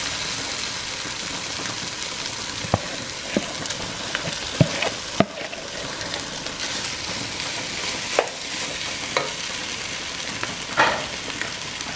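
Boiled potatoes frying in oil and spice paste in a non-stick pot, a steady sizzle, with a wooden spatula stirring and giving a few sharp knocks and scrapes against the pot.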